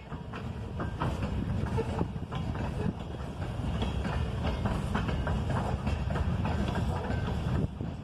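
Freight train rolling past: a steady low rumble of rail cars, with irregular clicks and clanks of wheels over the rails.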